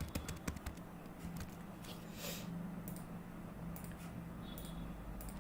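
Computer keyboard typing: a quick run of keystrokes in the first second, then scattered key or mouse clicks, over a steady low hum.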